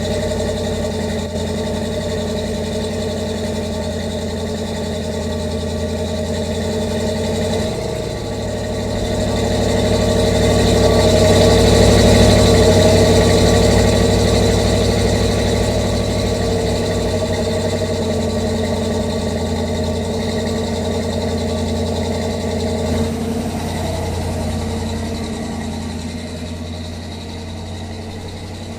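Chevrolet C10 pickup's 350 cubic-inch V8 running steadily. It grows louder about a third of the way in, then slowly settles back.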